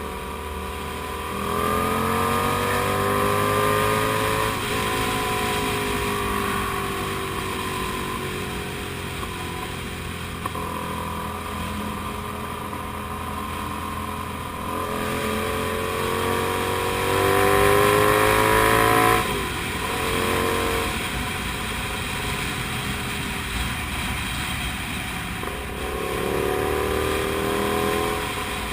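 Comet GTR 250's 250 cc V-twin engine under way, its revs climbing and falling several times as the rider opens and closes the throttle, with a sudden drop in revs about two-thirds of the way through.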